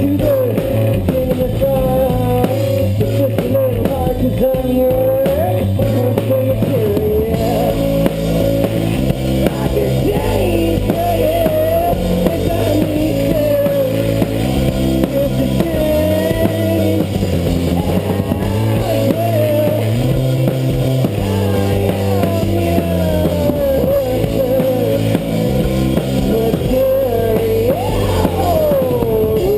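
Live rock band playing a song: drum kit, bass and electric guitar under a wavering lead melody.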